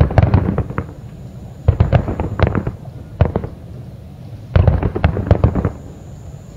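Distant aerial fireworks shells bursting in rapid volleys: four clusters of sharp, rumbling booms with short lulls between them.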